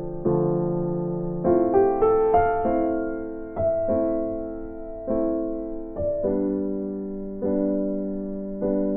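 Background music: slow electric piano chords, each struck and left to ring, with a short run of quicker notes a couple of seconds in.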